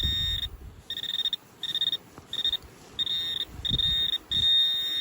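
Metal detector giving a high, single-pitched beep on a buried target. The beeps come irregularly, grow longer and merge into a steady tone near the end as the target is closed in on.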